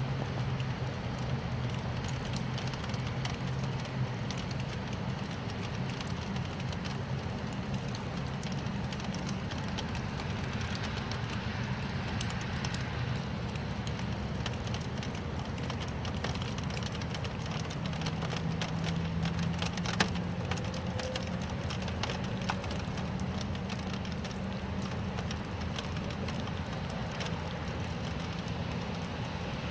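Steady rain falling, an even hiss scattered with small ticks of drops, with a faint low hum underneath.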